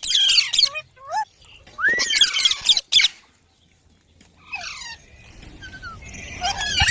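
Indian ringneck parrots calling: repeated shrill squawks and chirps that slide up and down in pitch, with a pause of about a second in the middle before more chirping near the end.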